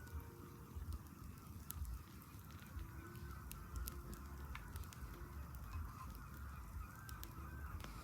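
Campfire burning, with scattered sharp crackles and pops over a low rumble, and faint wavering whistling tones throughout.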